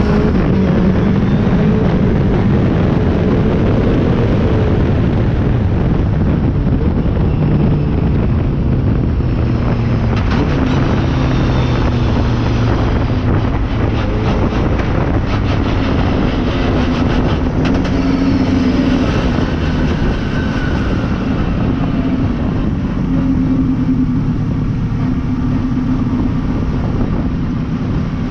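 Toyota Starlet's engine running hard at speed, its note holding and then stepping up or down every few seconds, under heavy wind rush on a bumper-mounted microphone.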